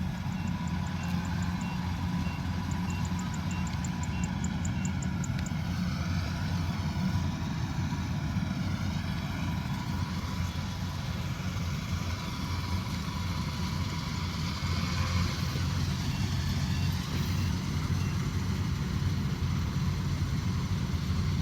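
Combine harvester's diesel engine running steadily at working speed.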